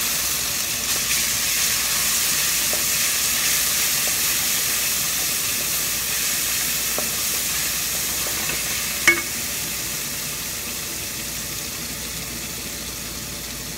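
Chopped onion, garlic and ginger sizzling in a hot wok, a steady frying hiss that slowly dies down. One sharp knock about nine seconds in.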